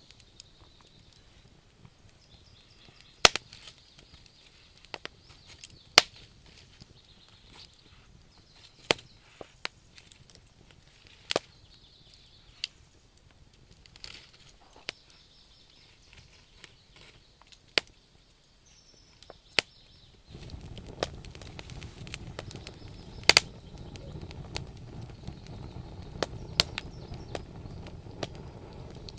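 Wood campfire crackling: scattered sharp pops and snaps of burning logs, a few of them loud. About twenty seconds in, a steady low rush of burning comes in under the crackle.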